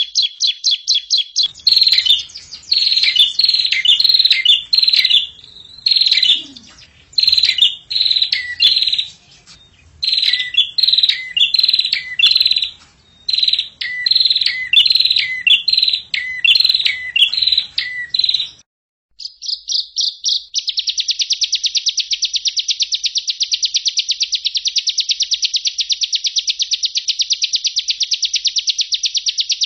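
Songbird song from a bird-song training (masteran) recording: a quick series of repeated whistled phrases with falling notes, a short break about 18 seconds in, then a long fast, even trill that carries on to the end.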